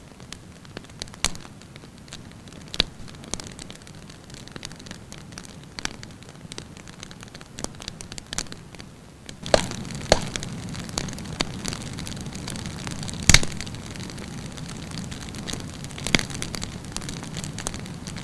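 Wood campfire burning, with a steady low rush of flame and frequent sharp crackles and pops of burning wood. The fire gets fuller and louder about halfway through, and one especially loud pop comes a few seconds later.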